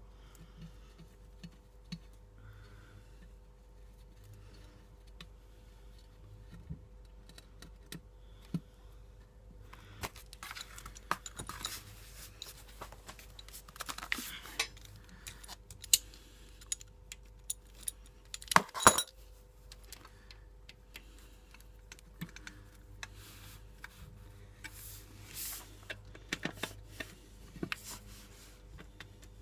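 Metal hand tools and bolts clicking and clinking against the oil pan of a Honda CBR F2 motorcycle as the sump is bolted back on. The clicks are sparse at first and grow busier about a third of the way in, with the sharpest clink about two-thirds through.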